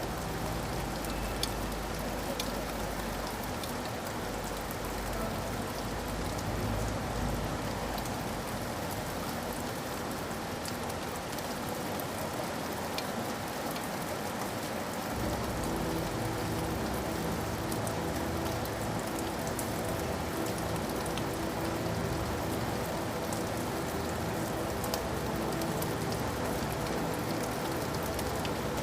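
Steady rain falling, with the clicks of individual drops hitting a surface scattered through it.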